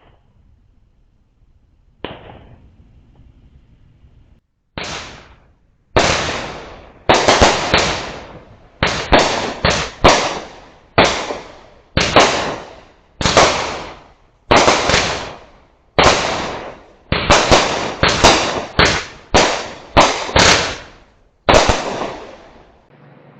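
Fireworks going off in the neighbourhood: two single pops, then a rapid string of loud bangs about one a second, some in quick pairs, each fading out over about half a second.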